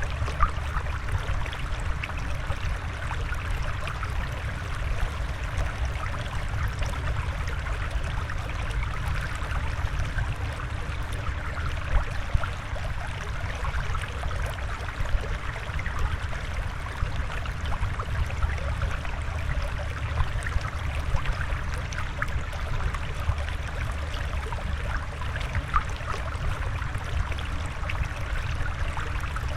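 Flowing, bubbling water: a steady, trickling wash with a low rumble underneath and small gurgling ticks, unchanging throughout.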